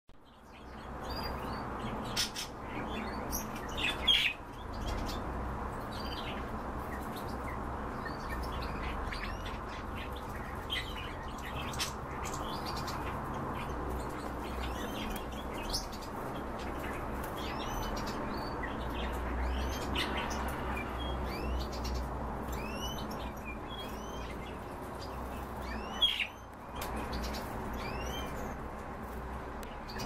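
Several caged birds giving short, high, arching chirps scattered throughout, with louder calls about four seconds in and again near the end, over a steady low hum.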